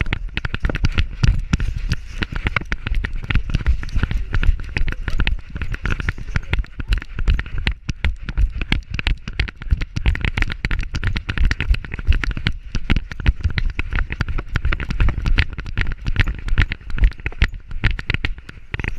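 Rapid, irregular knocks and rustling from a camera strapped to a running dog's back, jolted with each stride.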